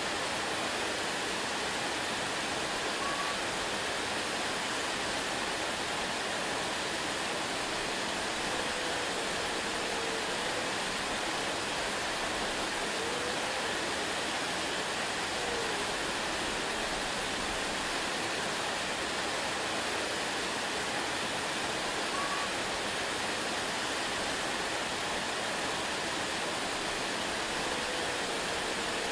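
Waterfall: a steady, even rush of falling water with no change in level, and a few faint, short chirp-like tones now and then.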